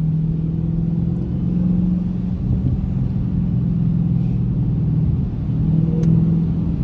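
Dodge Hellcat's supercharged 6.2-litre V8 droning steadily while driving, heard from inside the cabin; its pitch rises slightly and eases off a couple of times under light throttle.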